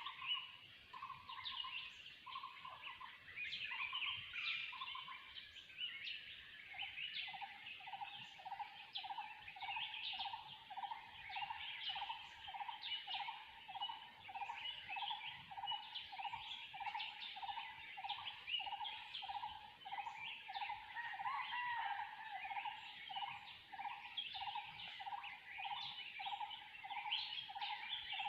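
Tropical forest bird chorus: many birds chirping high and busily, while one bird repeats a short, lower note over and over, about one and a half times a second, settling into a steady series after about six seconds.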